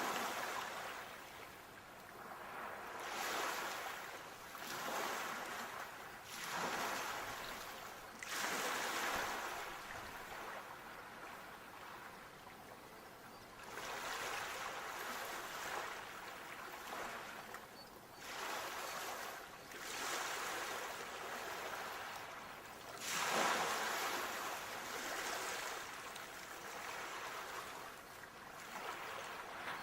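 Sea waves washing onto the shore, each one rising to a hissing rush and then fading, one about every one to two seconds, with a louder wave breaking about 23 seconds in.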